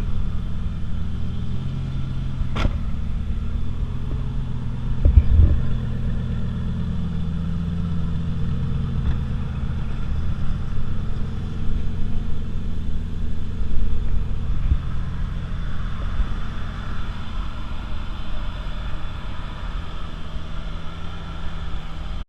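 Lamborghini engine and road rumble on the move, a steady low drone, with a sharp click a few seconds in and a heavier thump about five seconds in.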